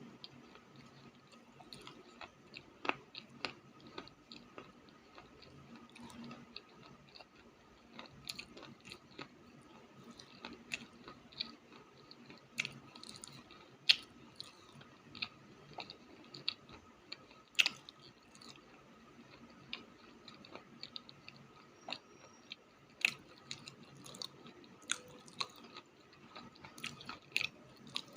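Someone chewing crunchy clay close to the microphone: irregular sharp crunches and crackles, a few every second, with some louder snaps.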